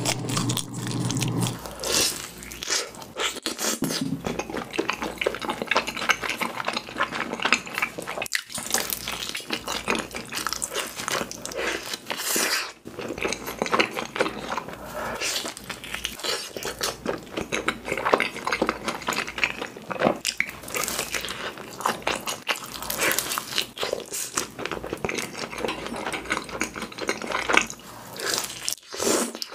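Close-miked eating sounds: biting into and chewing pizza, a dense, irregular run of small crunches and mouth noises.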